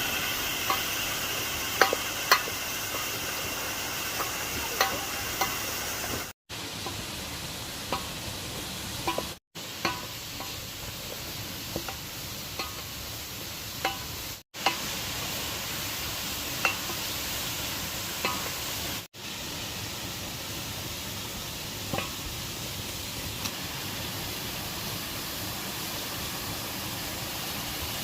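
Steady rushing noise of the waterfall, with scattered light clicks and knocks of a utensil against a cooking pot as food is stirred. The sound drops out briefly four times.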